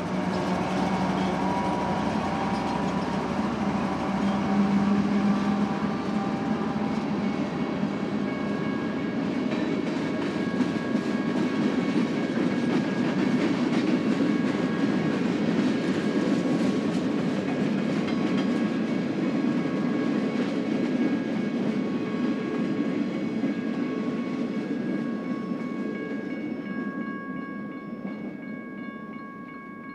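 Diesel freight train passing at a grade crossing: the locomotives' engines at first, then a long string of freight cars rolling by with steady wheel-on-rail clatter. The crossing bells ring throughout and become clearer as the train noise fades near the end.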